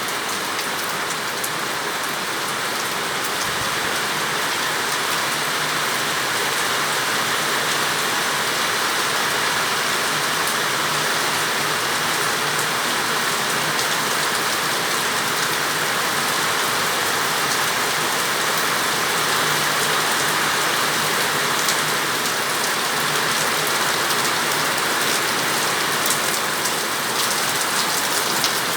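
Heavy, steady rain falling and pattering on surfaces, with a dense scatter of fine drop impacts.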